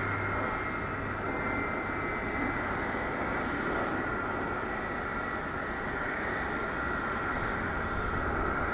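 Jet airliner engines running at low power, a steady whine over an even rush of engine noise.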